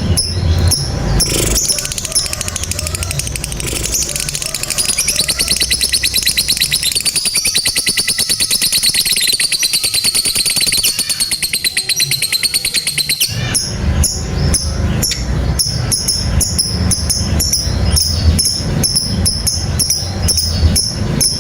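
Lovebird giving a long 'ngekek' trill: a very fast, even, high-pitched rattling call that starts about a second and a half in and holds for about twelve seconds. It breaks off into dense, rapid clicking chatter with a low thudding underneath.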